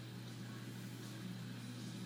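Steady low hum over a faint even hiss.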